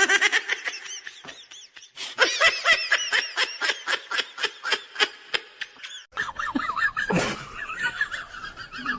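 A person laughing hard in a quick run of short 'ha-ha' pulses, breaking off about six seconds in. A quieter high, wavering voice-like sound follows.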